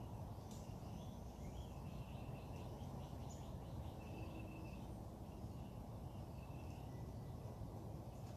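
Songbirds singing faintly over a steady low background rumble, with a quick run of repeated chirps in the first few seconds and a short held whistle-like note partway through.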